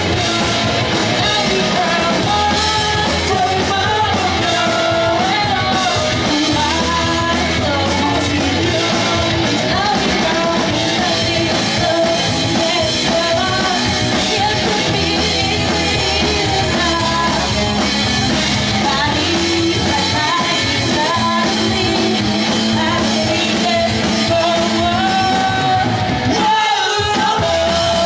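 Pop-punk band playing a song live: loud electric guitars, bass and drums with a sung lead vocal. About a second and a half before the end, the band briefly cuts out in the low end, then comes back in.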